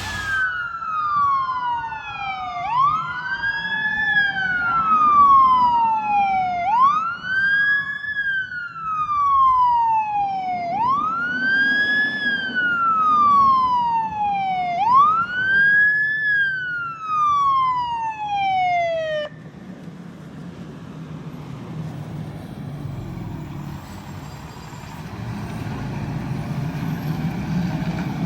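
Fire engine's siren wailing, each cycle a quick rise and a slower fall about every four seconds, with a second siren overlapping in the first several seconds. The siren cuts off suddenly about two-thirds of the way through, leaving the low rumble of a heavy engine and traffic.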